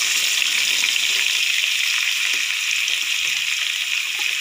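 Diced raw potatoes sizzling in hot oil with cumin seeds, just tipped into the pan: a loud, steady frying hiss.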